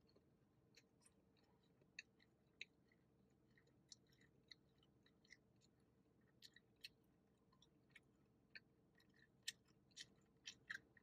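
Faint chewing of a soft sugar pretzel, with irregular small wet mouth clicks and smacks, coming more often near the end.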